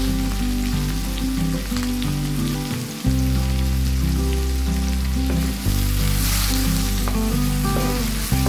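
Chopped onion, garlic and galangal sizzling in margarine in a steel wok, with a wooden spatula clicking and scraping against the pan now and then as it is stirred. Background music with held chords plays underneath.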